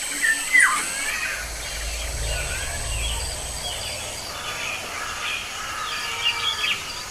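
Small birds chirping and calling in quick short notes, with a few louder calls near the start and again near the end, over a low rumble in the middle.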